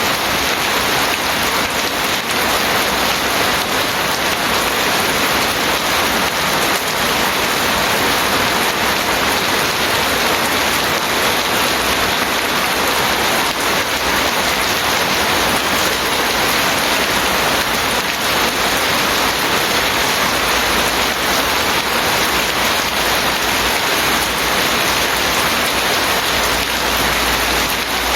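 Steady heavy rain falling, an even unbroken hiss of drops without pause.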